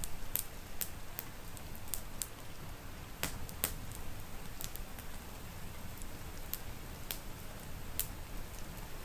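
Wood fire crackling in a fireplace: irregular sharp pops, two louder ones about three and a half seconds in, over a steady low rumble.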